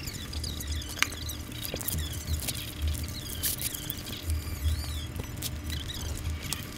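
Close-miked chewing of a mouthful of sandwich with crisp apple and lettuce: small wet mouth clicks and crunches over a low, uneven pulsing of the jaw.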